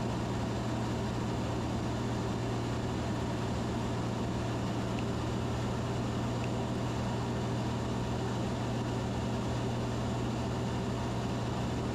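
Steady in-flight cabin drone of a Van's RV-10 light aircraft: engine and propeller giving a constant low hum under an even rushing hiss.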